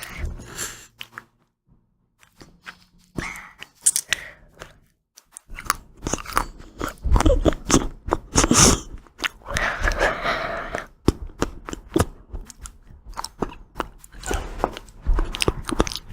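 Close-miked chewing and crunching of ice cream, with sharp crackles and wet mouth sounds: sparse for the first few seconds, then dense and continuous from about halfway in.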